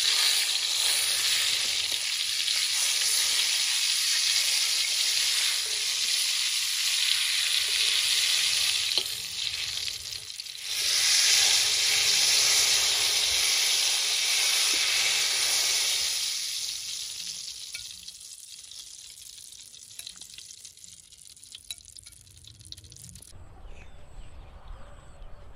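Stuffed luffa gourd sizzling in hot oil in a wok. The sizzling dies away about two-thirds of the way through, leaving it much quieter.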